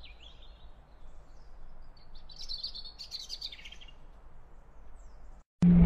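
Birds chirping over faint outdoor background noise. Near the end the sound cuts out for a moment and a loud, deep boom with a falling pitch begins.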